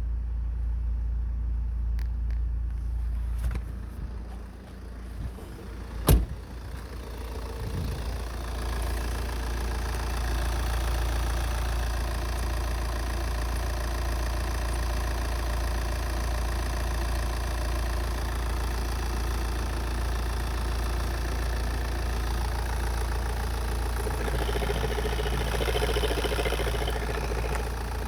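A sharp knock about six seconds in. From about eight seconds an Opel Astra H's 1.9 CDTi (Z19DTH) four-cylinder turbodiesel runs at a steady idle, a little busier for a few seconds near the end.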